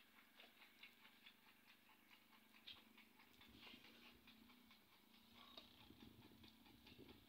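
Near silence: faint rapid ticking over a low steady hum.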